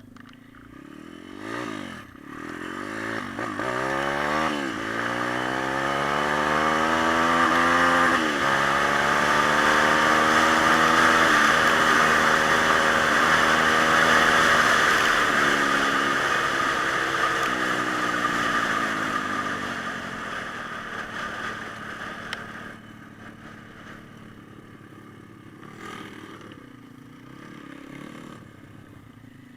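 A pit bike's small single-cylinder engine revving up through the gears, its pitch climbing in steps with gear changes, holding at speed, then dying away as the bike moves off.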